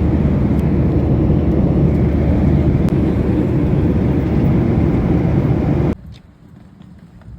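Loud, steady rumble of a vehicle in motion, cutting off abruptly about six seconds in.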